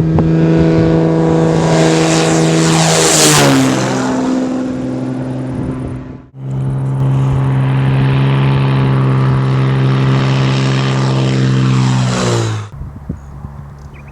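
Cessna 210M Centurion's six-cylinder Continental piston engine and propeller passing close by twice, loud and steady. Each time the pitch drops sharply as the aircraft goes past. The sound breaks off abruptly about six seconds in before the second pass.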